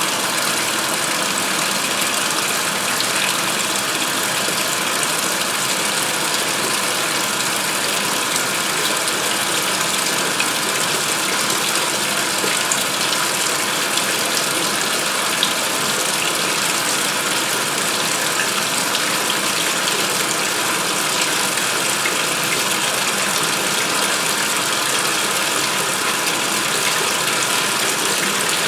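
2016 Speed Queen top-load washing machine filling its tub with water for the rinse, a steady gushing from the water inlet.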